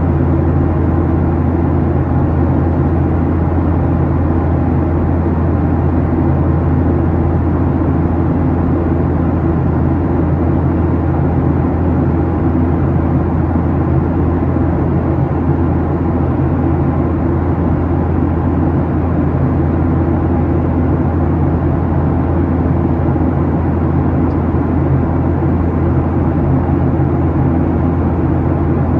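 Steady cabin drone of a Boeing 737-800 in the climb: its CFM56-7B turbofan engines and the airflow, heard inside the cabin as an unchanging rumble with a strong low hum.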